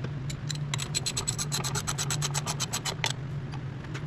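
Ratchet wrench clicking rapidly in short runs while the manifold bolts are snugged down, over a steady low hum.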